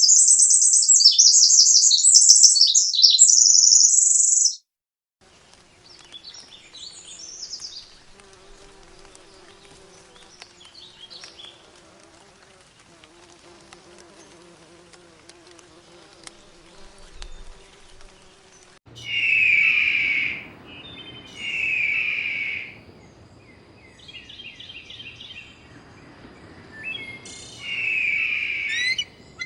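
Birdsong from several different birds in turn. First comes a rapid, high-pitched chirping song for about four seconds, then a brief break. Next comes a long faint stretch of scattered quiet chirps over background hiss. Near the end there are three or four loud, lower-pitched repeated calls with some high chirps between them.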